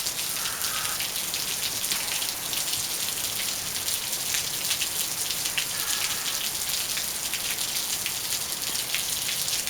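Steady rain falling, a continuous hiss made up of a dense patter of individual drops striking surfaces.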